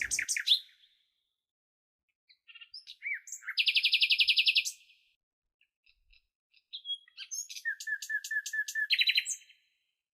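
Small songbird chirping, with two bouts of high, rapid trilling: one about four seconds in, and a second of chirps and trills from about seven to nine seconds in.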